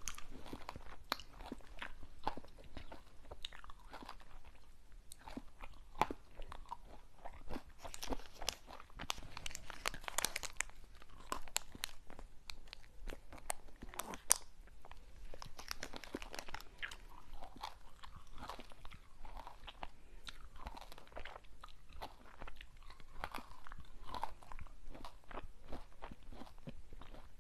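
Close-miked eating of crunchy sweets: a steady run of crisp bites, crunches and chewing crackles, with no talking.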